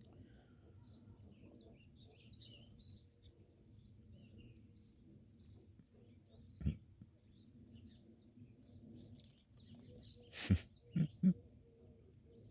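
Faint, scattered chirps of small songbirds at the feeders over a low steady hum. A single sharp knock comes about two-thirds of the way in, and three louder knocks close together near the end.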